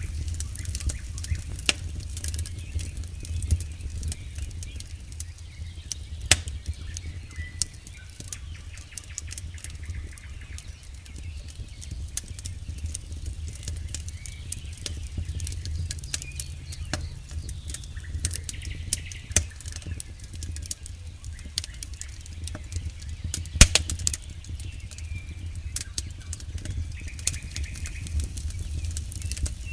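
Campfire burning with irregular sharp crackles and pops over a steady low rumble; one pop is louder than the rest near the end.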